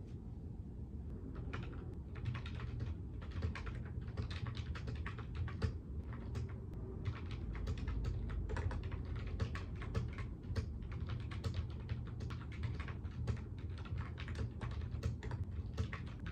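Typing on a computer keyboard: a fast, irregular run of key clicks that starts about a second in, over a steady low background hum.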